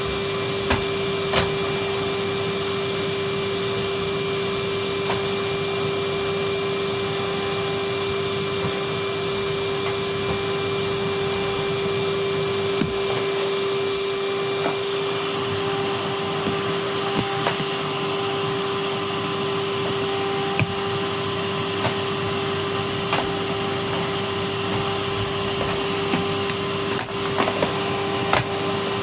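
Vacuum cleaner running steadily with a constant hum and hiss. Scattered small clicks and knocks come through, and the high hiss changes character about halfway through.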